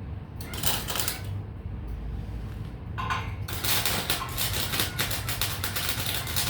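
Electric welding arc crackling: a short burst about half a second in, then a steady run of crackle from about three seconds in, over a low hum.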